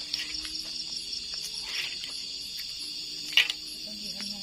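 Steady chorus of crickets and other night insects, a continuous high-pitched trill. A single sharp click stands out about three seconds in.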